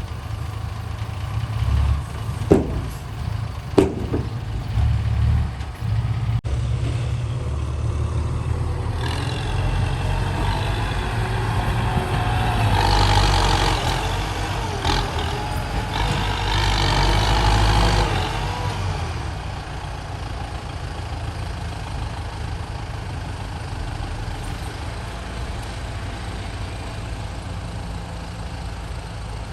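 Dump truck's diesel engine running, with two sharp knocks a few seconds in. It grows louder, with a higher whine, for about ten seconds in the middle, then settles back to a steady lower run.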